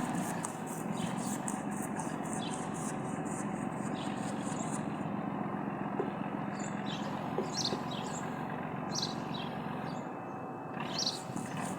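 A steady engine hum, like a motor idling, with short high chirps heard over it from about halfway through.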